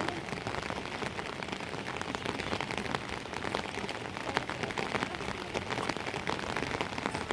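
Steady rain, with many individual drops striking close by in a dense, continuous crackle.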